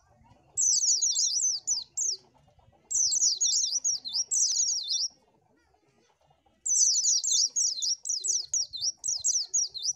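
White-eye (pleci) singing: fast runs of high, downward-slurred chirps in phrases of one to two seconds, with a pause of about a second and a half near the middle.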